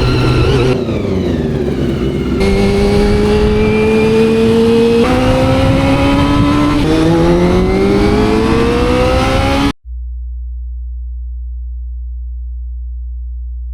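Honda CBR400RR's carbureted inline-four engine revving hard, its pitch climbing steadily with several abrupt jumps. About ten seconds in it cuts off suddenly to a steady low hum.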